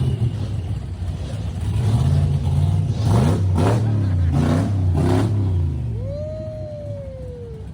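Blower-supercharged pro-street engine idling with a low rumble, then revved in about four quick blips in the middle before settling back. Near the end a single high tone rises and then slowly falls.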